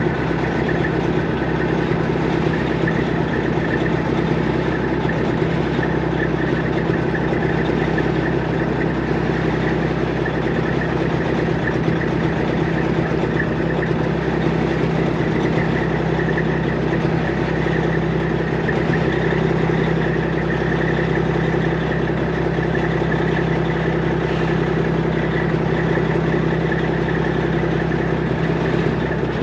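Semi truck's diesel engine running steadily with an even, unchanging hum.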